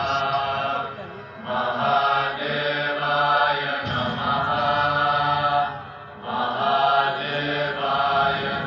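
Group of voices chanting a mantra over a low drone, in phrases of about two to three seconds with short breaths between them.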